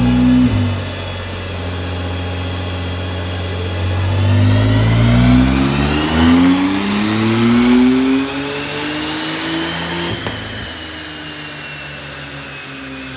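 A car engine revving up: after steady running, its pitch climbs for about six seconds with a high whine rising along with it. It drops back to lower, steady running after a sharp click about ten seconds in.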